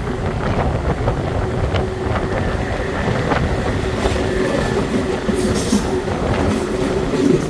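Série 900 electric metro train running along the track: a steady rumble with a held low tone, and scattered clicks of the wheels over the rails.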